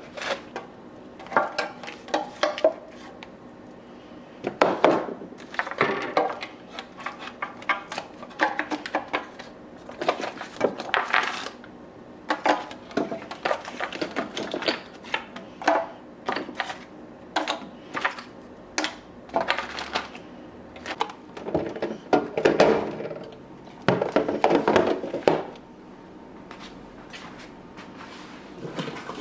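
Irregular clatter of kitchen containers and dishes being handled and set down, with many small clicks and knocks and a few short bursts of clinking.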